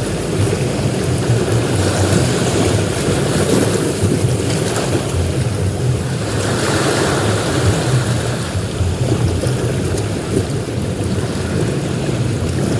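Ocean surf on a beach: a steady deep wash of breaking waves, with a wave's hiss swelling up about halfway through.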